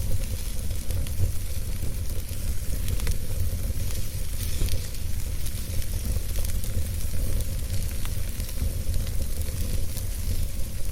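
Wood campfire burning, with a steady hiss and many small, irregular crackles and pops over a low rumble.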